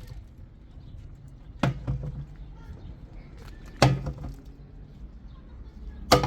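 Three sharp knocks about two seconds apart.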